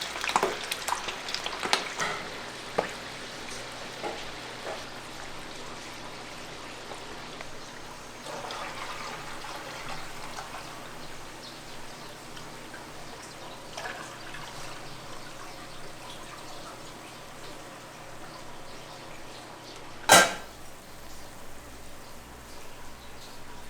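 Small fish frying in a pan of oil for dorribaengbaeng: a steady crackling sizzle with scattered pops, denser at the start. A single sharp knock about twenty seconds in.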